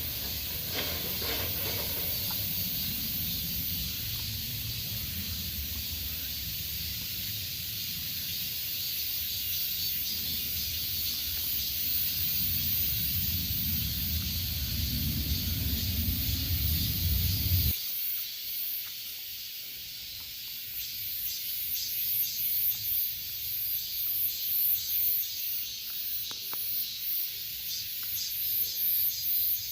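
A loud chorus of cicadas buzzing in a high, hissing drone; from about twenty seconds in it pulses in rapid rhythmic surges. A low rumble underlies the first two-thirds and stops abruptly.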